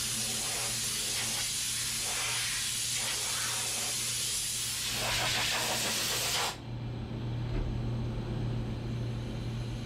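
Compressed-air blow gun hissing steadily for about six seconds, then cut off suddenly, over a steady low hum.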